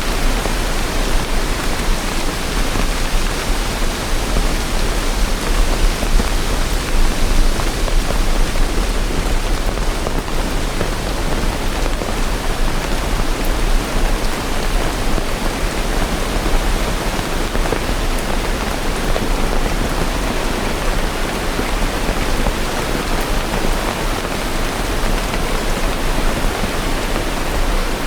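Steady rain, a dense even hiss with no thunder and no single drops standing out.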